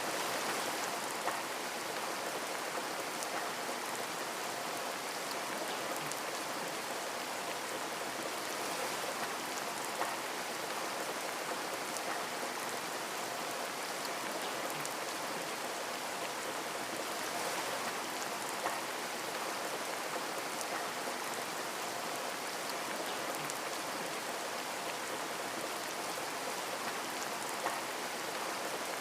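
Steady rain falling on a window, a continuous patter with a few single drops ticking a little louder here and there.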